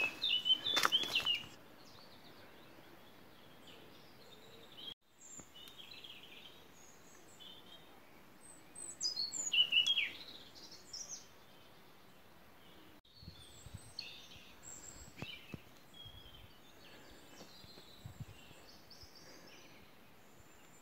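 Wild birds chirping and calling in woodland: scattered short high chirps, the loudest burst about halfway through with a falling whistle. Footsteps through undergrowth in the first second or so.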